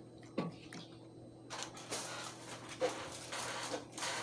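Close-up chewing and mouth noises from someone eating a creamy broccoli, sausage and shrimp dish: a sharp click about half a second in, then a dense run of crackly, clicking chewing sounds from about a second and a half on.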